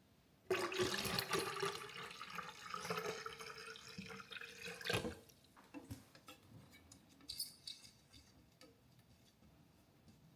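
Liquid poured into a glass for about four and a half seconds, its tone rising slightly as the glass fills, ending in a sharp knock, then a few light clinks.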